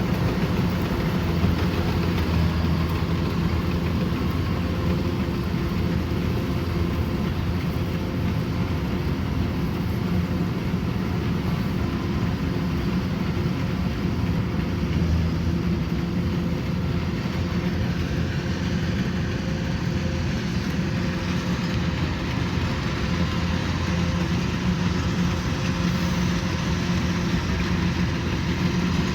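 Kubota combine harvester's diesel engine and threshing machinery running steadily at constant speed while harvesting rice, a continuous hum with a drone.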